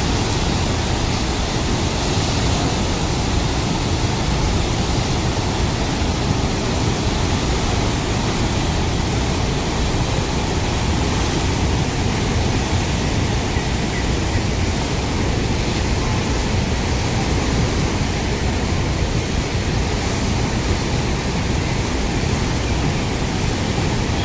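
Water pouring through the open gates of a dam spillway: a loud, steady, unbroken rush.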